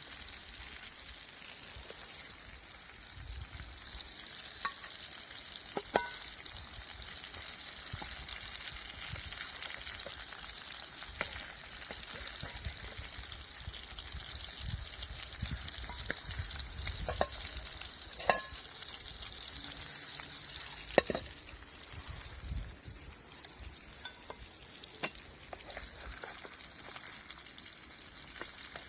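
Silver carp frying in oil in a pan over a campfire: a steady sizzle with scattered sharp pops.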